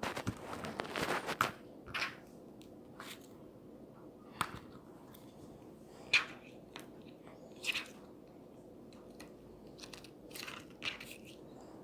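Sporadic crisp crunching noises: a dense run of them in the first second and a half, then single short crunches every second or two.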